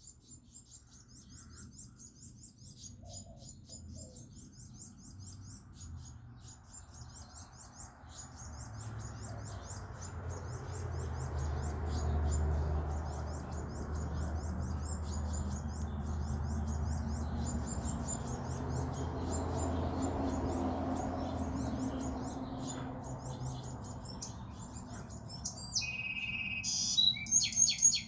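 Small birds chirping: a steady run of rapid, high-pitched chirps. A low rumble swells up about a quarter of the way in and fades again toward the end, and near the end a few louder, closer chirps break in.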